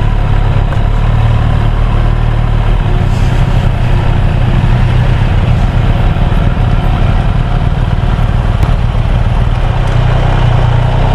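Motorcycle engine running steadily at cruising speed, heard from the riding bike with a constant rush of wind noise over it.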